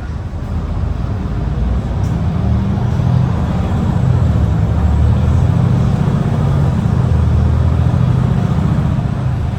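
MAN ND323F double-decker bus engine running under load, heard from on board. It grows louder about a second and a half in and stays loud, with a deep low drone.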